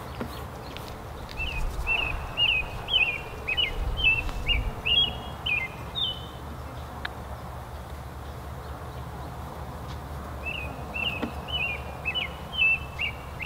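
A songbird singing two runs of short, sharp, sliding chirps, about two notes a second: one lasting several seconds, then, after a pause, a second run near the end.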